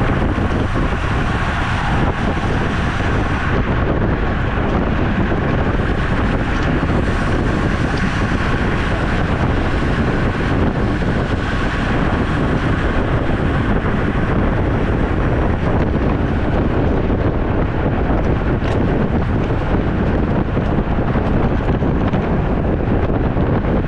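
Steady loud rush of wind on the microphone while riding a road bicycle.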